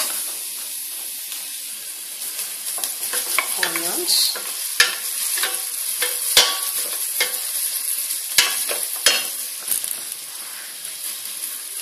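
Sliced garlic and onions sizzling in hot oil in a stainless steel pot, stirred with a wooden spoon. The spoon knocks sharply against the pot several times through the middle of the stirring.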